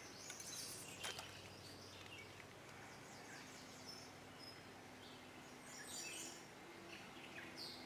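Faint birdsong: scattered short, high chirps from songbirds over quiet outdoor background noise. A faint steady low hum comes in about three seconds in.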